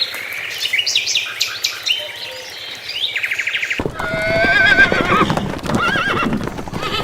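Quick high chirps, then about four seconds in a sudden cut to a horse whinnying: one long wavering neigh and a shorter one after it.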